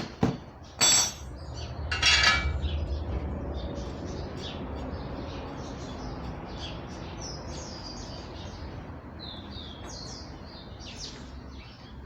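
Small birds chirping again and again over a low steady rumble, after a few sharp metallic clanks in the first two seconds.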